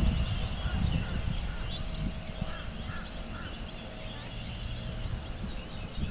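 A flock of birds calling, many short calls overlapping, over a low rumble of wind on the microphone.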